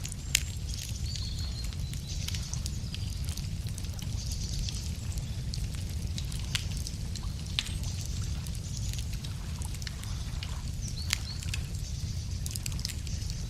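Wood fire crackling, with sharp pops at irregular intervals, the loudest about half a second in. Birds chirp faintly over a steady low rumble.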